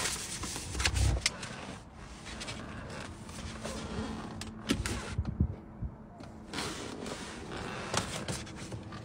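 Scattered clicks and knocks, with a low thump about a second in, from a car's door and interior being handled.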